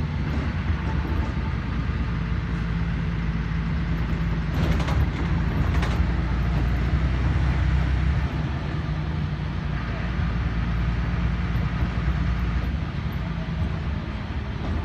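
Inside a LiAZ 5292.21 city bus while it drives: a steady engine and drivetrain drone, with a brief burst of clicks and rattles about five seconds in.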